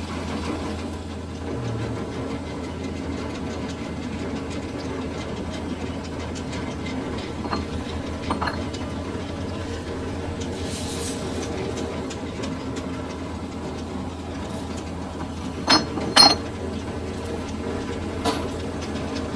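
Metal lathe running steadily with a low hum. Sharp metallic clinks come now and then, two loud ones close together about three-quarters of the way through.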